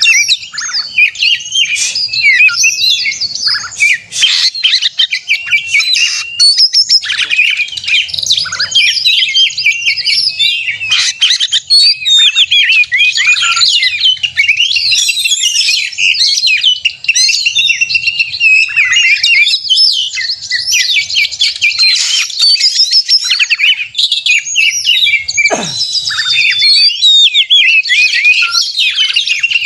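Oriental magpie-robin singing non-stop in the agitated 'konslet' fighting style: a dense, fast torrent of varied chirps, trills and whistles. A single long falling whistle comes near the end.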